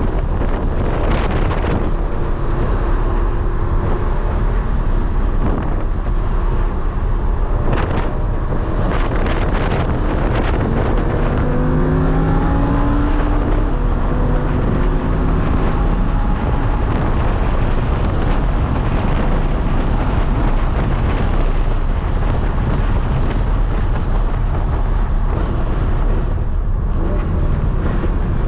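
Lamborghini Huracán's V10 engine running hard at speed on a racetrack, its pitch climbing through the revs several times around the middle, under heavy wind and road noise on the microphone. A few brief sharp jolts stand out, near the start and about eight seconds in.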